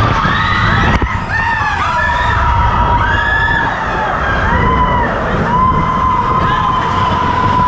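Expedition Everest roller coaster train running along the track with a steady low rumble, with riders' high shouts and screams rising and falling over it.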